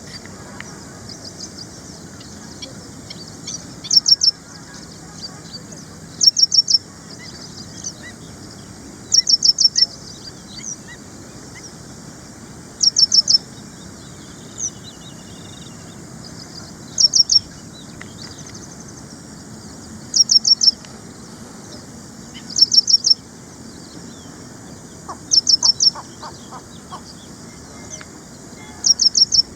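Ashy prinia singing: short phrases of three to five quick, high notes, repeated every few seconds.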